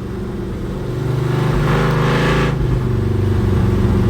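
Vehicle engine running, speeding up about a second in, with a rushing, hissing noise over it for about a second.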